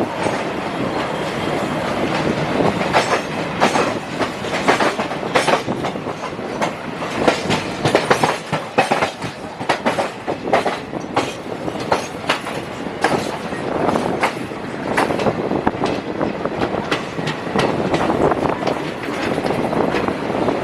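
A train running along the track: a steady rumble with the wheels clattering over rail joints, many sharp clicks a second at an uneven pace.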